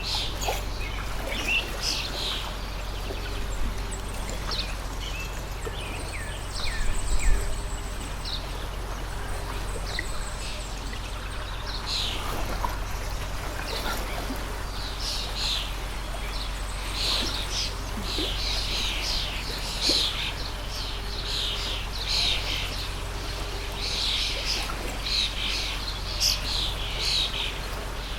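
Running water of a stream, with many small birds chirping and singing over it, their calls growing denser in the second half. A brief louder burst of sound stands out about seven seconds in.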